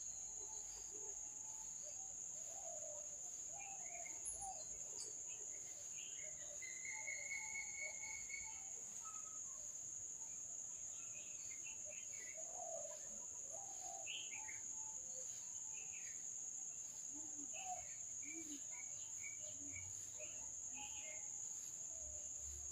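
Steady high-pitched drone of insects such as crickets, with scattered short bird chirps and calls over it, including one longer whistled note.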